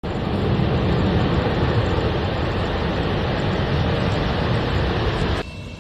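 Loud, steady roar of an Antonov cargo plane's engines, heavy in the low end, cutting off abruptly about five and a half seconds in.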